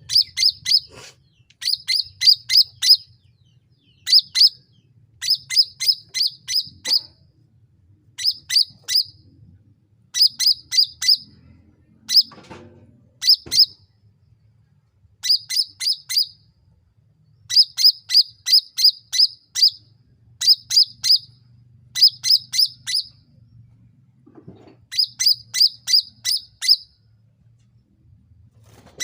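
Cucak ranting bird calling in quick bursts of three to six short, high, sharp notes, each falling slightly in pitch, with a burst every second or two.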